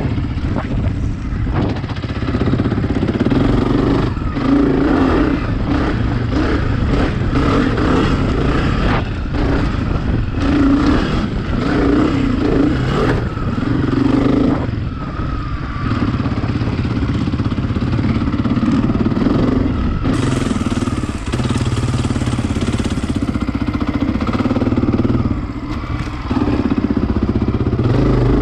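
Dirt bike engine running hard with the throttle opening and closing over and over while riding, with clatter from the bike.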